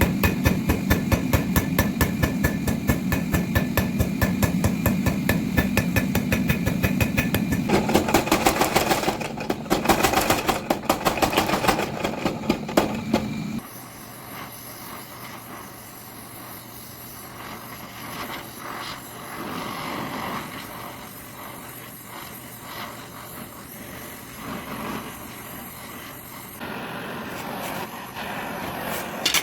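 Power hammer forging hot steel: rapid, even blows, several a second, for about thirteen seconds, then it stops suddenly and leaves a quieter steady hum with a few faint knocks.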